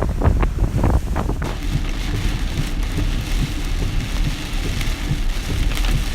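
Wind gusting against the microphone with a heavy low rumble; about a second and a half in it gives way to a steady hiss of rain from the hurricane's outer bands, with wind rumble still underneath.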